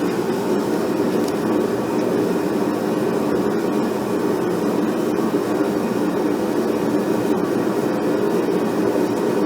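Forge running with a steady, even rushing noise, heating the end of a sword tang for bending.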